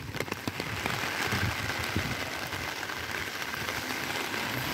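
Heavy rain falling on an umbrella held overhead and on wet pavement, a steady hiss with sharp ticks of drops striking the umbrella in the first second.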